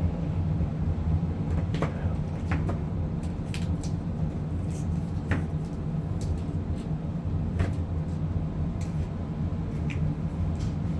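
Steady low hum of a running furnace, with a few light knocks and clicks spread through it as the air filter is handled and fitted.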